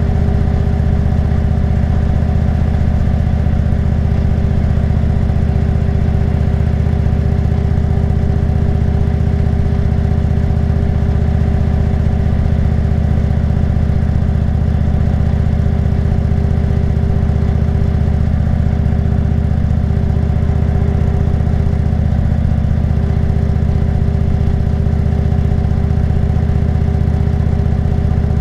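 Motorcycle engine running steadily at an even cruising pace, with a steady whine riding over its low engine note.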